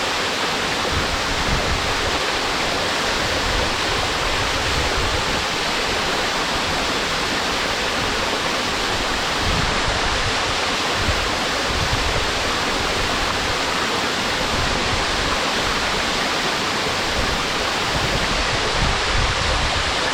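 Small waterfall pouring steadily into its pool: a constant, even rush of falling water.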